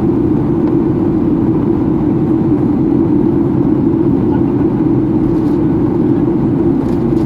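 Steady drone inside the cabin of a Boeing 737-800 during its descent: airflow and CFM56-7B engine noise at an even level, without rises or breaks.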